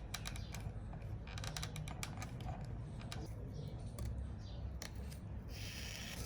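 Irregular light clicks and taps over a low steady hum, with a short hiss near the end.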